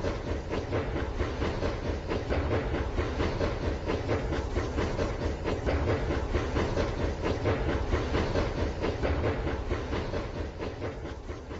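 A train running on rails: a steady, dense clatter of wheels over a low rumble.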